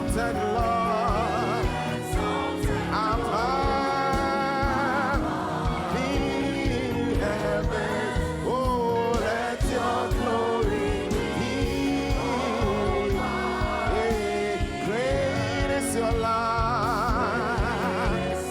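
Gospel worship music: singers with vibrato-laden held notes over a full band with a steady beat.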